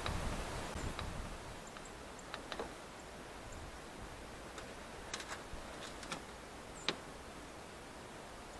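A handful of faint, sharp clicks at irregular intervals, the clearest near the end, over a quiet background with a constant high electronic whine.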